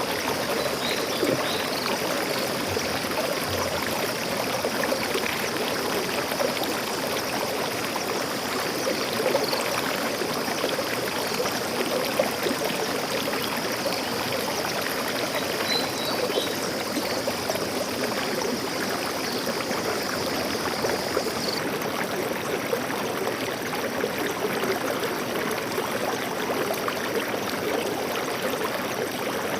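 Forest stream water flowing and trickling steadily. A faint high steady hiss cuts off abruptly about two-thirds of the way in, and there are a few faint high chirps.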